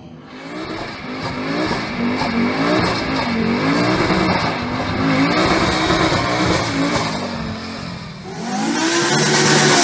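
Fiat hatchback driven hard on a winding road, its engine revving up and dropping back several times as it takes the bends. It grows much louder near the end as the car comes close.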